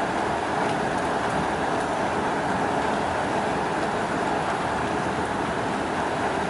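Steady hiss of falling rain, with a few faint ticks of drops.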